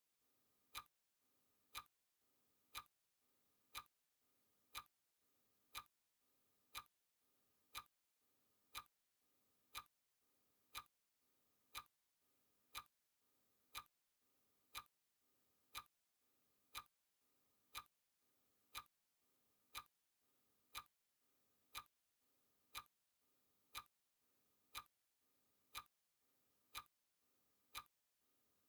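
Countdown timer's clock-tick sound effect, one quiet sharp tick each second, evenly spaced.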